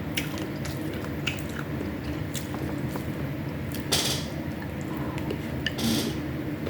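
Close-miked mouth sounds of eating: chewing and biting with small wet clicks, and two louder noisy bites or crunches about four and six seconds in, over a steady low hum.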